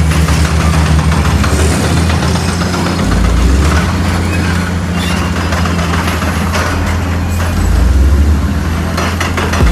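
Heavy truck engine running loud, a steady low rumble with road and mechanical noise over it.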